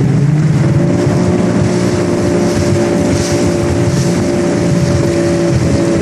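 Watercraft engine running steadily at a constant speed, a low rumble with a steady hum over it.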